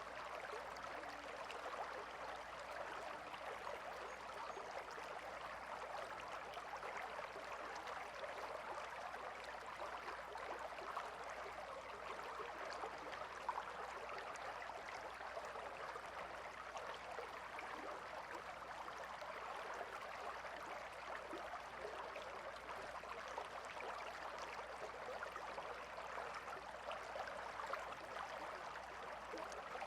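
A calm river flowing: a quiet, steady rush of moving water.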